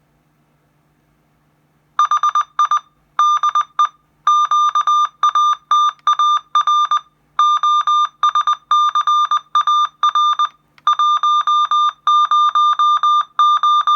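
Satellite finder meter's beeper sounding rapid, evenly pitched electronic beeps in runs with short gaps, starting about two seconds in. The beeping is the meter's signal tone for a received satellite signal.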